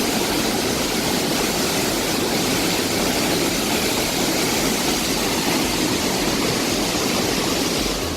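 Steady, loud rush of a very powerful waterfall heard at close range, the water pounding down without a break.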